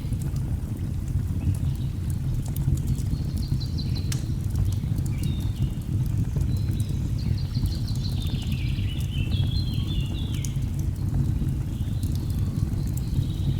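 Steady low rush of a waterfall, with crackling fire pops and birds singing in phrases of short high notes; a stepped, falling phrase comes about nine seconds in.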